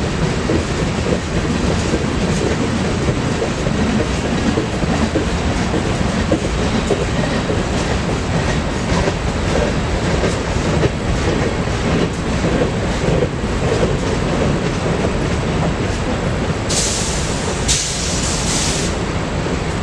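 Freight train rolling past at close range, its wheels clicking steadily over the rail joints. A short high hiss, in two parts, comes near the end.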